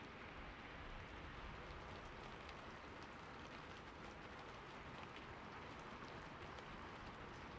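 Steady rain falling on a roof: an even patter of drops, with many small separate drop ticks scattered through it.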